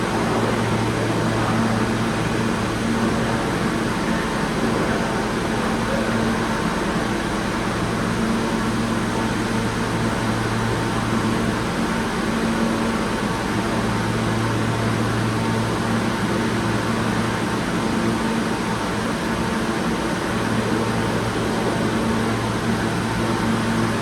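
Steady rush of air-conditioning and ventilation noise from an R160 subway train standing at the end of the line, with a low electrical hum that fades in and out every few seconds.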